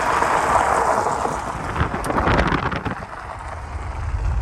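Volkswagen driving off on a gravel road: a loud rushing noise of tyres on gravel and wind on the microphone, with a few crackling ticks about two seconds in. The engine's low rumble grows near the end.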